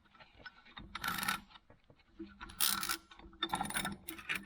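Steel parts of a Record No. 6 bench vise clinking and scraping against each other during reassembly, in three short bursts with small clicks between them.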